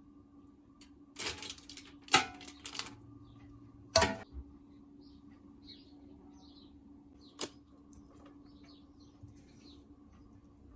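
Kitchenware being handled: a few sharp clatters and knocks, loudest about two and four seconds in, with a lone click later, over a faint steady hum.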